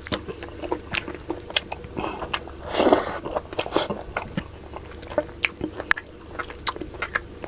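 Close-miked chewing of sinigang na baboy: many quick wet mouth clicks and smacks, with one longer, louder noisy burst about three seconds in.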